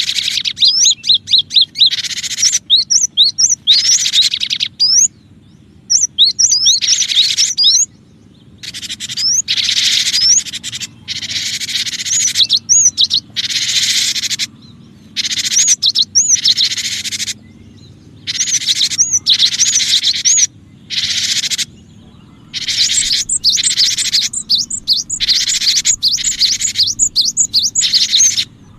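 Cinereous tit (gelatik batu) singing loudly: rapid, repeated high chirping phrases in bursts of a second or two that start and stop abruptly, with short gaps between. This is a spliced lure recording meant to draw in other birds.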